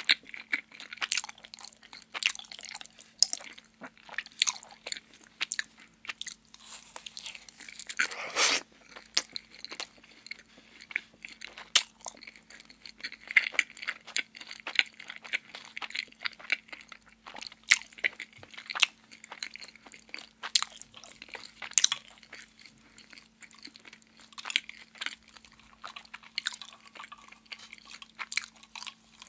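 Close-miked chewing of a donut: irregular wet mouth smacks and soft crunches, one longer, louder swallow-like sound about eight seconds in. A faint steady low hum runs underneath.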